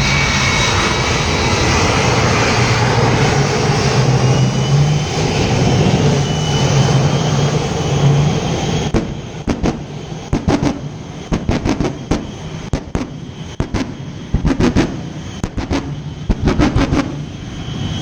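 Aircraft engine noise, a loud steady roar with a low hum. About halfway through, a quick run of sharp knocks and crackles begins to break it up.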